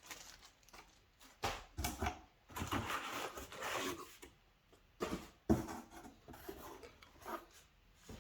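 Packaging being handled: irregular rustling of plastic wrap and cardboard with light knocks as vacuum cleaner parts are taken out of the box.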